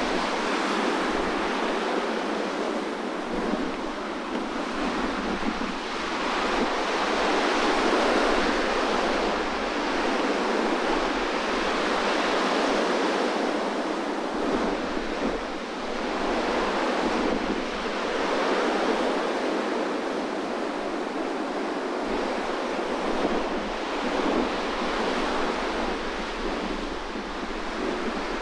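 Sea surf rolling in, a continuous roar that swells and eases every few seconds, with strong wind buffeting the microphone.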